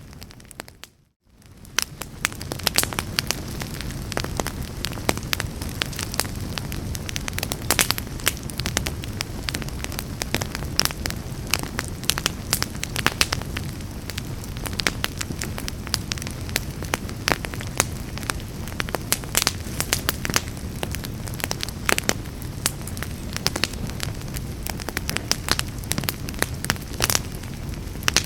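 Wood fire burning in a fireplace: a steady low rumble of flames with frequent sharp crackles and pops. About a second in it dips out briefly, then fades back up.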